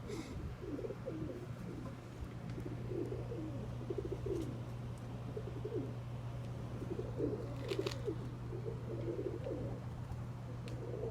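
Several pigeons cooing over and over in a coop, over a steady low hum.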